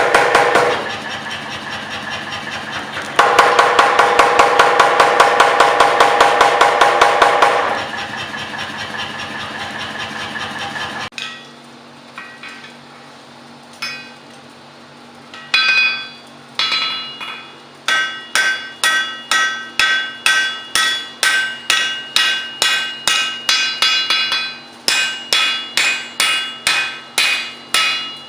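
A power hammer pounding hot steel in two quick bursts of rapid, even blows over the hum of its motor, which then runs on alone and stops. After a short lull, a hand hammer strikes the work on the anvil, at first a few blows and then a steady beat of about two a second, each blow ringing.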